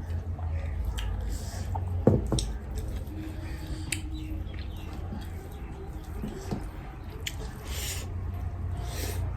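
Close-miked eating of curry and rice: wet chewing and scattered sharp mouth and lip clicks, with a few short sniffs or breaths, over a steady low hum.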